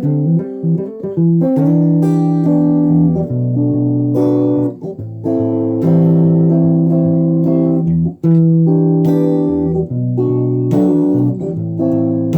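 Guitar music: plucked-string chords held and changing every second or two.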